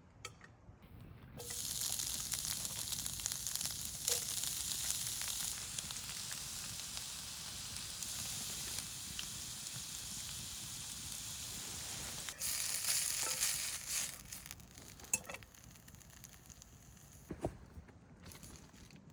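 Chicken sizzling on a hot cooking surface: a loud sizzle starts suddenly as the meat goes on, holds for about ten seconds, surges again briefly, then settles to a quieter sizzle with a few ticks and clicks.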